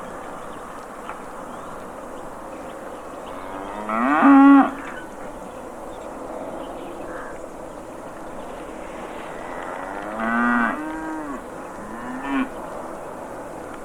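Cattle mooing: one loud call about four seconds in, another around ten seconds in, and a short one near the end, over a steady background hiss.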